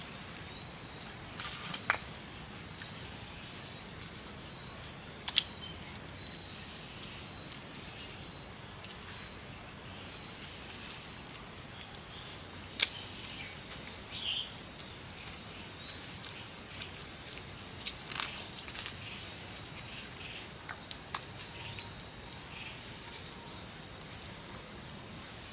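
A steady, high-pitched insect chorus shrilling without a break, with a few sharp clicks and knocks scattered through, the loudest about five and thirteen seconds in.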